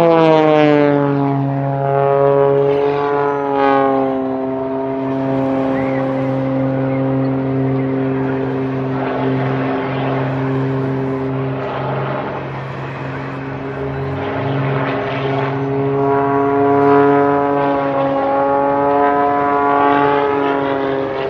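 Propeller-driven aerobatic plane's piston engine flying overhead. A steady engine drone drops in pitch at the start as the plane passes, then rises and falls again during the manoeuvres.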